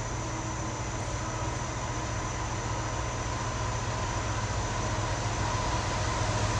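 Approaching CN train's diesel locomotives: a steady low rumble with a faint engine drone, growing gradually louder as the train nears.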